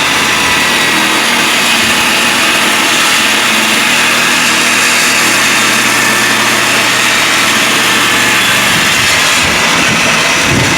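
Ridgid circular saw mounted under a table as a homemade table saw, running loud and steady at full speed while it rips a thin strip, about a sixteenth of an inch, off the edge of a board.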